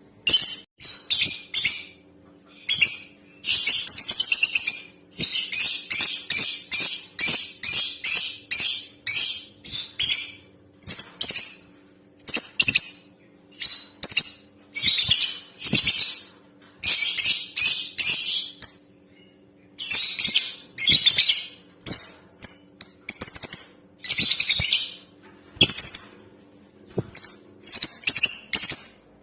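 Lovebird, by the title a female, calling over and over: shrill, sharp chirps in short bursts separated by brief pauses, with some longer runs of rapid chattering.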